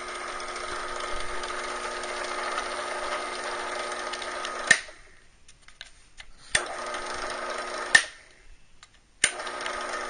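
Mastercraft 10-inch benchtop drill press, a 4.1 A belt-driven motor, switched on and off three times. Each start and stop is marked by a sharp click of the switch. It runs with a steady whirring hum for about four and a half seconds, then spins down. It runs again for about a second and a half in the middle and starts once more near the end, spinning fast on its current belt setting.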